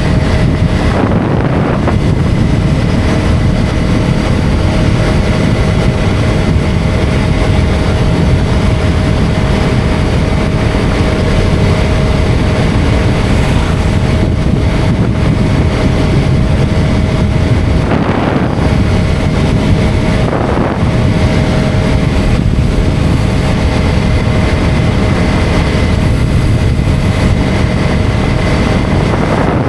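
KTM Duke 250's single-cylinder engine running at a steady cruise, its note holding an even pitch, under a heavy rush of wind on the microphone.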